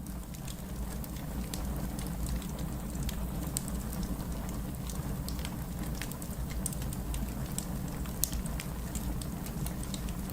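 Fireplace fire crackling: irregular sharp snaps and pops over a steady low rumble, swelling in over the first couple of seconds.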